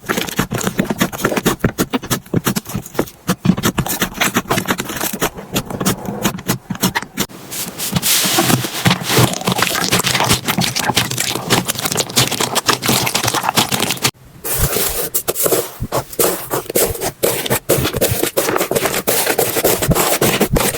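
Slime being squeezed, poked and stretched by hand, making dense crackling and clicking sounds. There is a short break about two-thirds of the way through before the crackling starts again.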